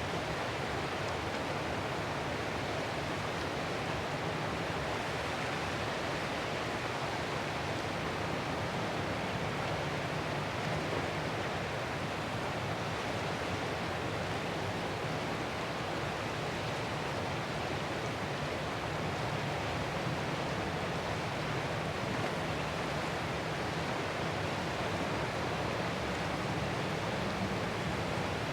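Ocean surf as a steady, even wash of noise, with no separate wave breaks standing out.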